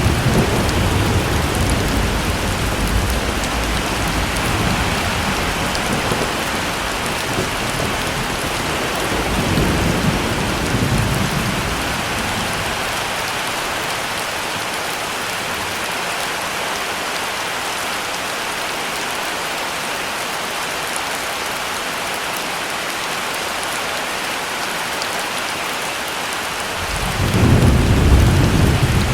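Heavy, steady rain with thunder rumbling through the first dozen seconds, swelling again about ten seconds in, then fading. A new roll of thunder builds near the end.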